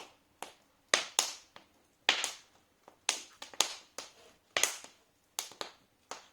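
Wood fire crackling in a fireplace: about fifteen sharp pops and cracks at uneven intervals, some coming in quick clusters.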